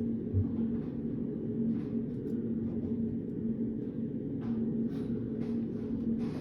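Reading-room ambience: a steady low hum with a faint held tone, with scattered faint short desk sounds of someone studying. A soft low thump comes about half a second in.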